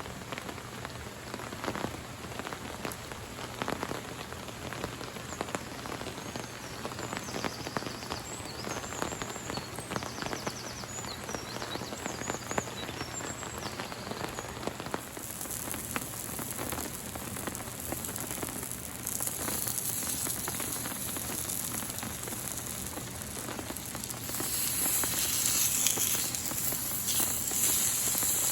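Rain falling and pattering on a surface, with many close, separate drop ticks over a steady hiss. It gets louder and hissier in the last few seconds.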